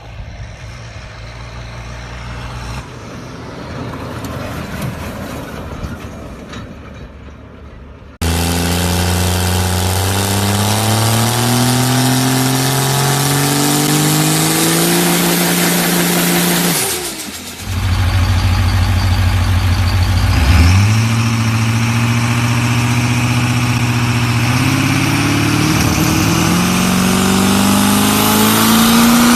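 Diesel truck engine accelerating hard, its pitch climbing steadily. A quieter stretch of engine sound comes first; it turns suddenly loud about eight seconds in, dips briefly about two-thirds of the way through, then climbs again.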